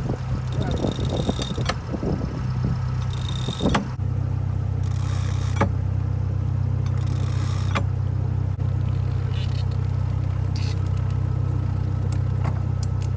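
A boat engine running with a steady low drone, with a few sharp clicks on top.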